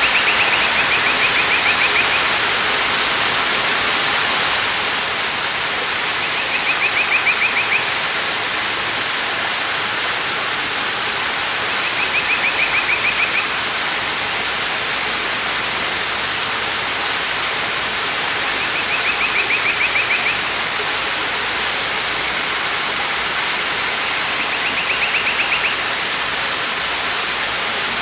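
Waterfall's steady rush of falling water. Over it, a bird's short, rapid, high trill repeats five times, about every six seconds.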